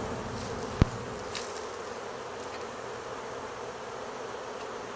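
Steady, dense buzzing of a huge honey bee swarm in the air all around. A single sharp click a little under a second in.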